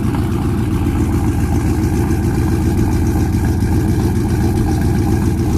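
2019 Ram 1500's 5.7-litre Hemi V8 idling steadily after a cold start, a deep, even exhaust note with no revving.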